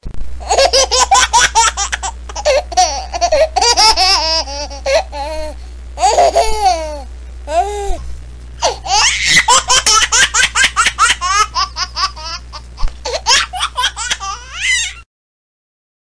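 High-pitched laughter played as a funny ringtone, in fast repeated ha-ha pulses with short pauses, over a low steady hum. It cuts off suddenly about a second before the end.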